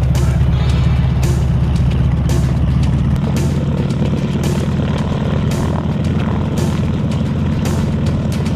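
Harvard trainer's radial engine and propeller running steadily, its low note shifting about three seconds in.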